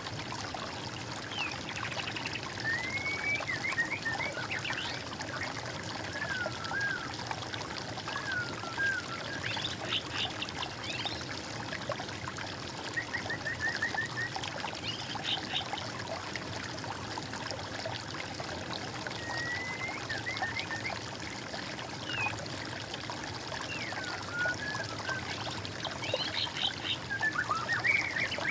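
Water trickling steadily, with songbirds singing short phrases of quick repeated notes and sweeping whistles every few seconds.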